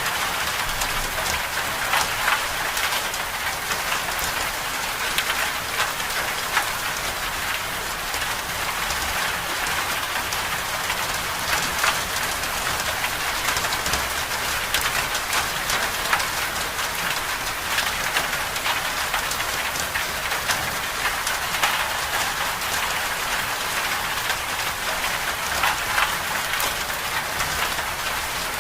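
Steady storm precipitation pattering on a surface: a dense, even hiss with frequent small sharp ticks of individual drops.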